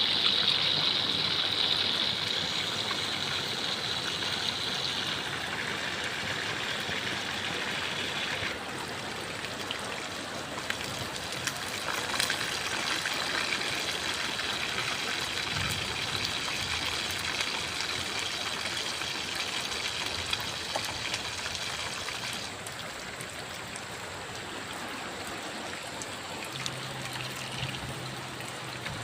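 Steady running and trickling water, a continuous hiss that shifts abruptly in tone twice, about a third of the way in and again near the end.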